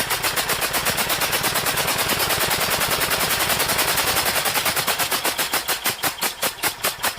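IMT 533 tractor's three-cylinder diesel engine running with one injector out of the head, the injector spitting its fuel into the open air in a steady train of sharp bursts, about four or five a second. The bursts come faster in the middle as the engine speeds up, then slow again near the end. The injector is spraying a fine mist, the sign of a good injector.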